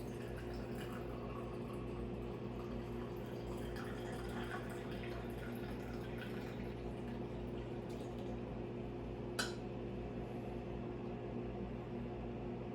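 Coffee trickling and dripping through a Hario V60 pour-over into a glass vessel, with small irregular ticks and a steady low electrical hum underneath. There is one sharp click about nine seconds in.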